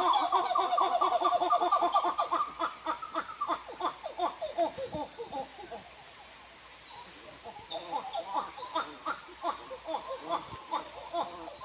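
Birds calling in quick runs of short, repeated notes. The calls thin out to a quiet patch about halfway through, then pick up again.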